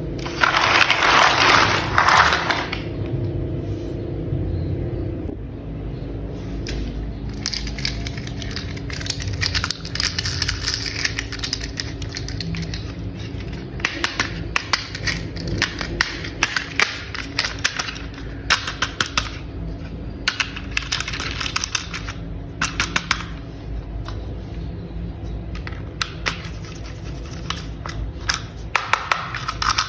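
Plastic toy parts being fitted and snapped together, heard as sharp clicks that come singly and in quick rattling runs over a steady low hum. It opens with a loud noisy burst lasting about two seconds.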